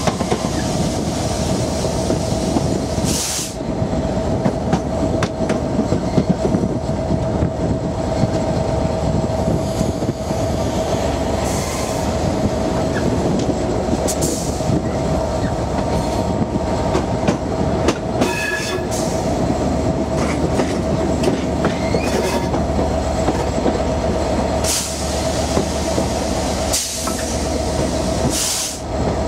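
Diesel-hauled passenger train running, heard from the coach just behind its Class 67 locomotive: a steady rumble of wheels on rail with a constant hum running through it and a few short clicks.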